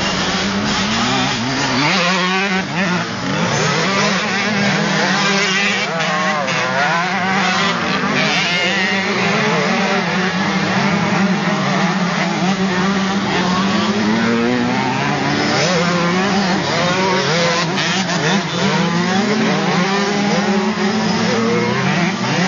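Several motocross dirt bike engines racing at once, their pitch rising and falling as the riders throttle on and off and shift, over a steady engine drone.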